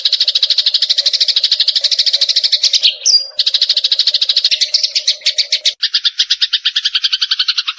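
Eurasian tree sparrow giving a rapid, unbroken chatter of about a dozen notes a second. It breaks briefly about three seconds in, shifts to a lower-pitched chatter near six seconds, and stops abruptly at the end.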